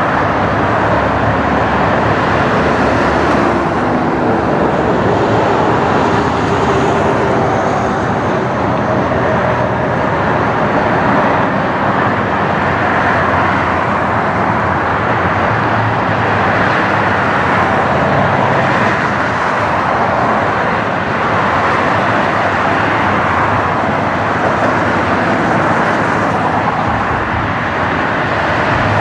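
Steady loud noise of jet airliner engines, holding even with no clear rise or fall.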